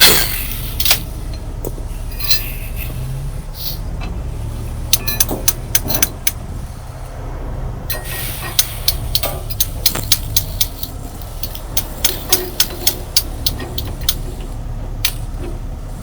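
Heavy tow truck's diesel engine idling steadily, with a run of sharp metallic clicks and clanks as recovery straps and rigging are worked, coming at roughly two a second over the middle of the stretch.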